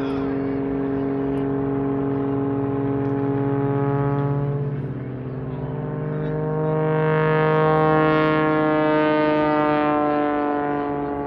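Aircraft engine droning overhead: a steady pitched hum that dips about five seconds in, then swells again with a slight rise and fall in pitch as it passes.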